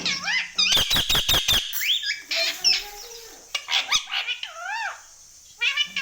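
Pet parrot calling and chattering: a string of high, squeaky calls that sweep up and down in pitch, with a quick run of about six sharp clicks about a second in.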